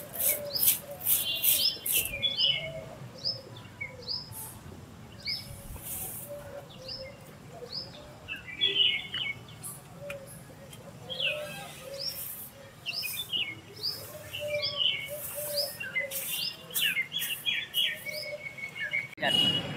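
Small birds chirping over and over: short, high chirps that each fall in pitch, with brief twittering runs between them. A few short swishing noises come through, mostly in the first half.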